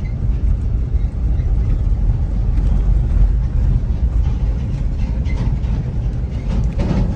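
Steady low rumble of a moving car's engine and tyres on the road.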